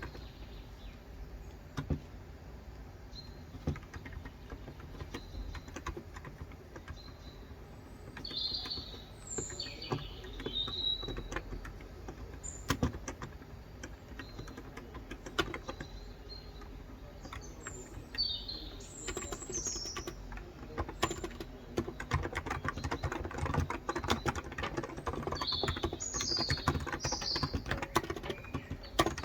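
Typing on a COX Endeavor electro-capacitive tenkeyless keyboard with 35 g switches, keystrokes coming in spurts with pauses and running denser over the last third. Birds chirp in three short clusters of high chirps.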